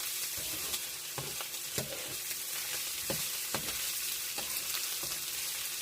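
Pork stir-fry with garlic and onion sizzling in a pan, a steady hiss, with a spatula scraping and knocking against the pan every second or so as it is stirred.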